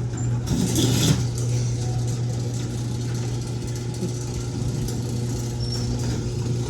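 LiftMaster garage door opener running as the door closes: a steady low motor hum, with a brief rattle about a second in.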